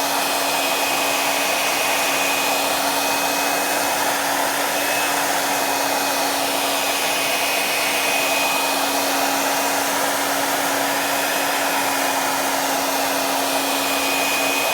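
Hair dryer running steadily: a continuous rush of air with a steady low hum and a faint high whine.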